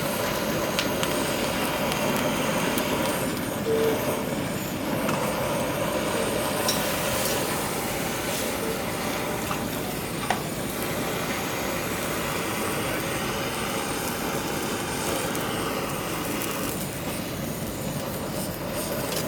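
Steady hubbub of a busy street-food market: a continuous rushing noise with faint voices under it, and a single sharp click about ten seconds in.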